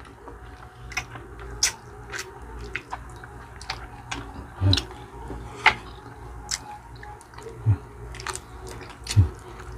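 Close-up eating sounds of chicken feet adobo being chewed and sucked off the bone by hand: wet smacks and sharp mouth clicks every second or so, with a few short low hums.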